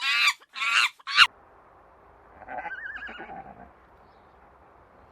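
Horse whinnying: a loud, high, quavering call broken into several quick pulses in the first second, then a fainter call about two and a half seconds in.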